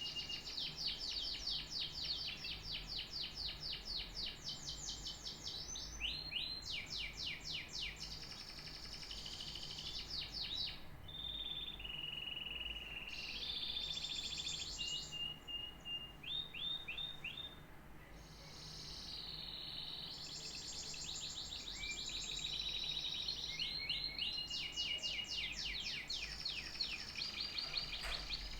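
Domestic canary singing a long song of rapid trills, repeated fast notes and clear held whistles that change from phrase to phrase, pausing briefly about two-thirds of the way in.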